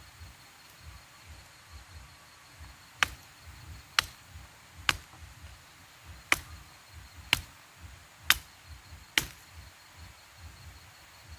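Wood being chopped: seven sharp strikes, roughly one a second, beginning a few seconds in.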